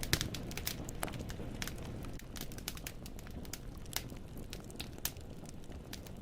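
Wood fire burning in a fireplace: a steady low rumble of flames with irregular sharp crackles and pops as the logs snap.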